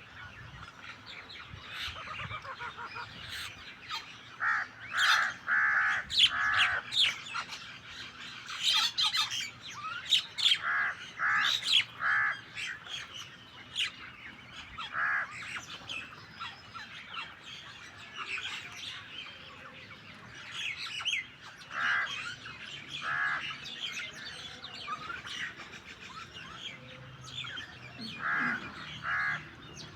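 A mixed flock of starlings and mynas calling while feeding. A continuous chatter of chirps and whistles is broken by clusters of harsh, rasping squawks, the loudest about five to seven seconds in.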